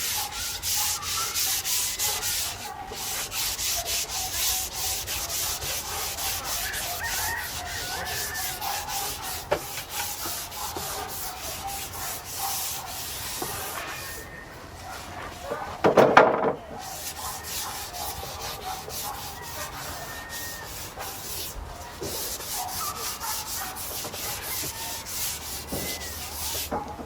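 A bristle brush scrubbing oil onto bare larch planks: a continuous scratchy rubbing of stroke after stroke, with a few short pauses. A brief, much louder sound breaks in about two-thirds of the way through.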